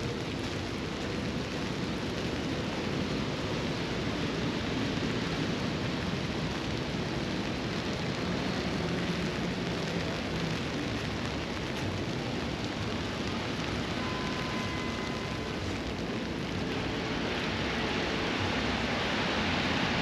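Steady rain falling, a continuous hiss that grows louder near the end.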